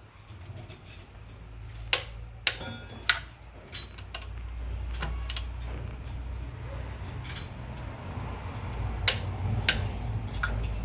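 Scattered sharp metallic clicks of hand tools and engine parts being handled, about five in all, in two clusters. Under them runs a low steady hum that grows louder from about four seconds in.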